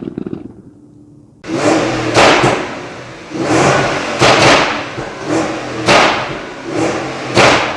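Porsche Cayenne engine through a full aftermarket exhaust, revved hard about five or six times in quick blips after a quiet idle in the first second and a half. The car runs a Stage 2 tune set up for exhaust pops and crackles.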